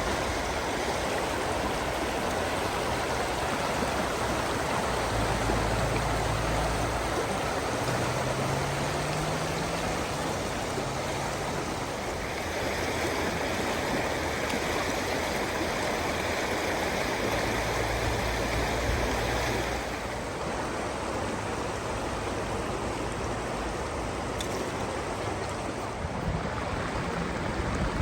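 Chilliwack River rushing steadily, running high after two days of rain. The upper part of the rush brightens for several seconds in the middle.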